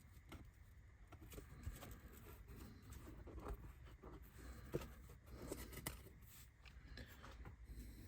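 Faint, scattered small taps and rustles of laser-cut card roof tiles being handled and pressed into place.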